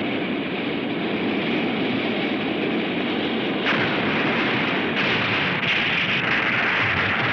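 Monster flame-breath sound effect: a continuous rushing roar, joined suddenly about three and a half seconds in by a brighter, louder hiss that grows again a second later.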